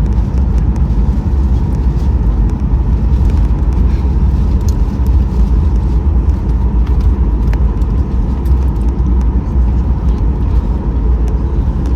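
Steady, loud cabin rumble of a Boeing 737-800 in flight, heard inside the cabin beside the engine: engine and airflow noise that holds even throughout.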